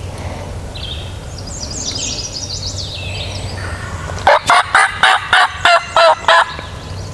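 Eastern wild turkey gobbler gobbling once, a loud rapid rattle of about eight notes lasting some two seconds, close by. Small songbirds chirp faintly before it.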